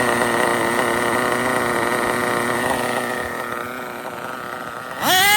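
RB CE sealed-backplate nitro glow engine of an RC drag car running steadily through a 1/10-scale muffler, easing a little quieter about three and a half seconds in. The engine had been judged a little lean up top and is being given more fuel.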